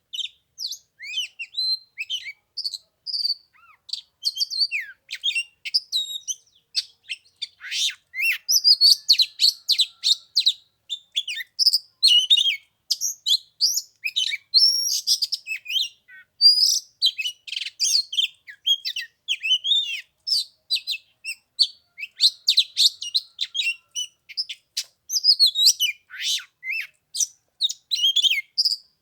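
Oriental magpie-robin singing: a long, varied run of clear whistles and chirps with brief pauses.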